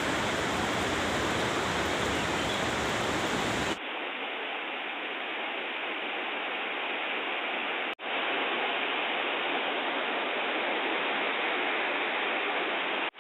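Steady rushing of a waterfall's falling water. It changes abruptly about four seconds in, losing its deepest and highest parts, and drops out for a moment about eight seconds in.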